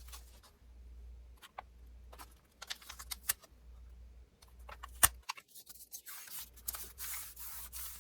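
Paper being handled and worked on a table: scattered light clicks, taps and rustles, with one sharper click about five seconds in and a longer stretch of paper rustling near the end.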